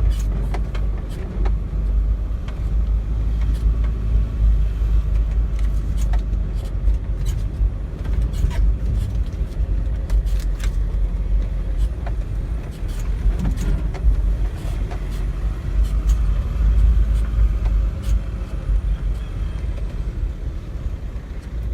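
A car heard from inside the cabin, driving slowly along a rough back lane: a steady low rumble from the engine and road, with frequent short knocks and rattles as the car goes over bumps.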